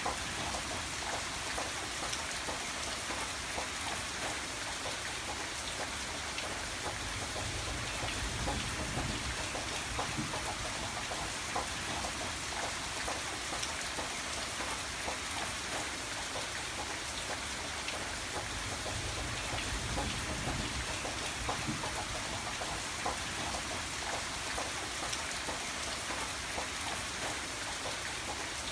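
Steady rain falling, with dense patter of drops striking a surface and a low rumble that swells briefly twice.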